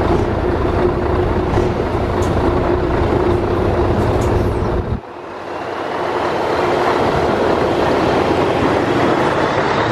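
Heavy truck on the move: a steady engine and road drone, then, after a sudden cut about halfway, the noise builds back up with a faint rising whine.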